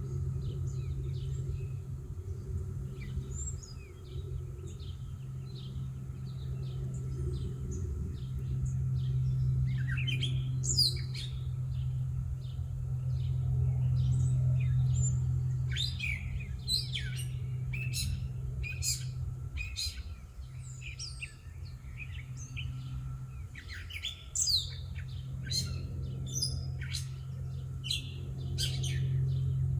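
Songbirds chirping and calling in many short, quick notes, busier from about a third of the way in, over a steady low hum that is louder than the birds. A faint, even high drone runs underneath.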